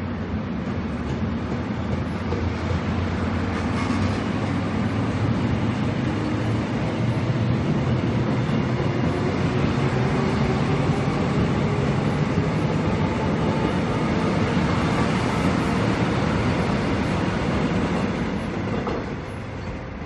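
Seoul Metro Line 1 rheostatic-control electric train running past close by: loud wheel-on-rail rumble with a rhythmic clatter and a faint steady tone above it, fading about a second before the end.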